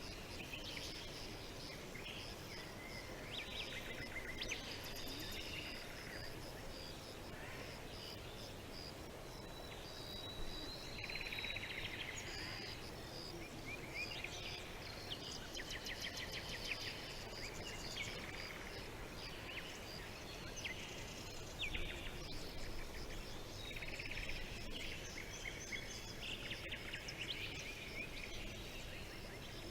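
Several small birds chirping and trilling in overlapping short calls over a faint steady background hiss.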